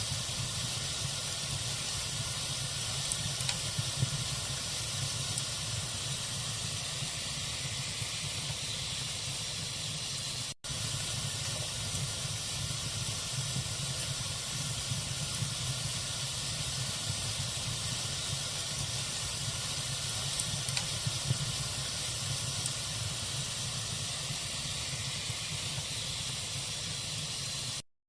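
Log fire burning in a fireplace: a steady hiss with scattered light crackles. The sound drops out for an instant about ten seconds in and cuts off shortly before the end.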